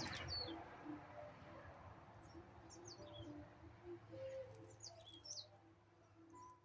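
Birds chirping faintly: scattered short, high chirps, many of them quick falling notes.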